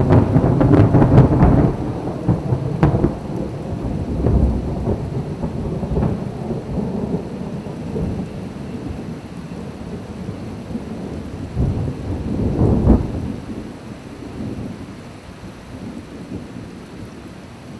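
Thunder rolling in long, deep rumbles, loudest in the first two seconds and swelling again about twelve seconds in, over steady rain.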